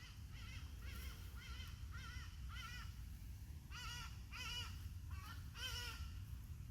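A bird calling in short, arching calls, about two a second, in three bouts: six calls, a pause, two calls, then three. A steady low rumble lies underneath.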